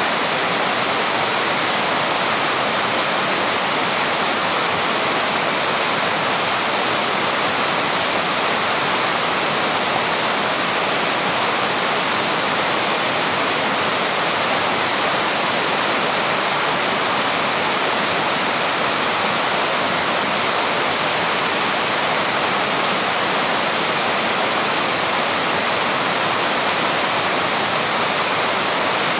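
Waterfall rushing steadily, an unbroken hiss of falling water that stays the same throughout.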